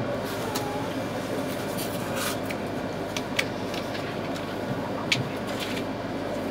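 Inside the carriage of the Toreiyu Tsubasa, an E3-series mini-shinkansen, pulling out of the station: a steady low rumble of the running train. A few sharp clicks cut through it, the loudest about three and five seconds in.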